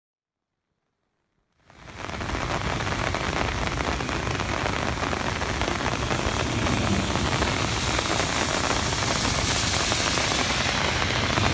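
Heavy rain pouring steadily in a severe thunderstorm, an even hiss that cuts in abruptly about two seconds in after silence.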